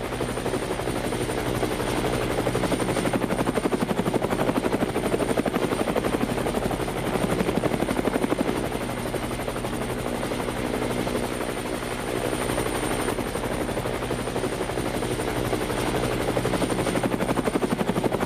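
Homemade toy helicopter's small DC motors running steadily, spinning the rotor blades with a rapid chopping buzz and a thin high motor whine.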